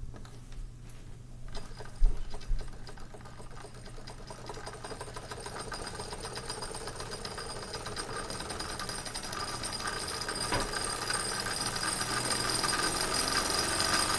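Wilesco D30 model steam tractor's small steam engine running with a rapid, even clatter that grows steadily louder as it picks up speed, with a couple of sharp knocks about two seconds in. The boiler pressure is still low, so it runs slower than it should.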